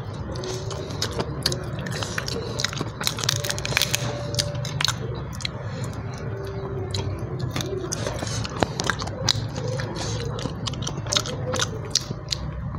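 A person chewing and biting fried food close to a clip-on microphone, with many short crunches and mouth clicks all through.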